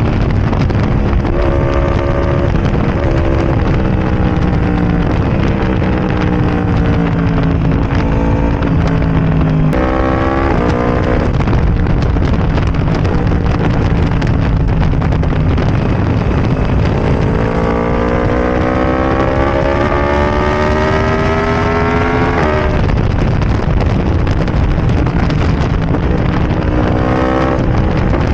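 Yamaha R1's crossplane inline-four through a de-catted Arrow Racing exhaust, under way: the engine note sinks slowly for several seconds, then climbs steadily under acceleration and drops sharply at a gear change about three quarters of the way through, before rising again near the end.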